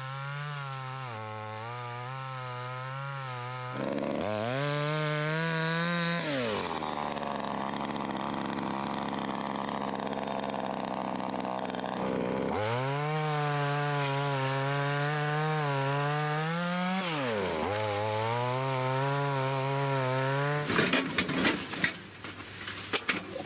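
Two-stroke petrol chainsaw revving and cutting firewood: the engine pitch sags under load while cutting through a log for several seconds, climbs again at full revs, then stops near the end. Sharp knocks and clatter of wood follow.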